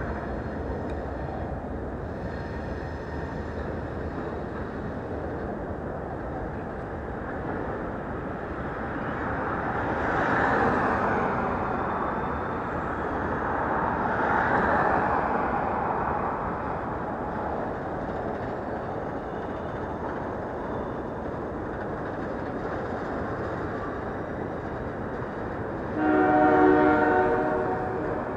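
Freight train rolling past with a steady rumble of wheels on rail that swells twice. Near the end the locomotive horn sounds one short chord-like blast, the loudest sound in this stretch.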